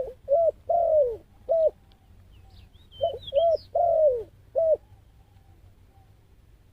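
A dove cooing two phrases of four notes, the third note in each longer and falling in pitch. A small bird chirps briefly between the phrases.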